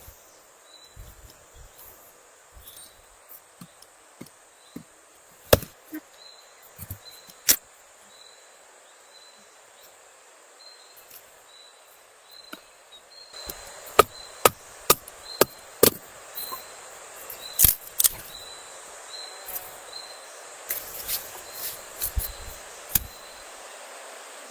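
Campfire crackling: sharp pops and knocks over a soft hiss that grows louder about halfway through. A cricket chirps steadily at a high pitch, about one and a half chirps a second.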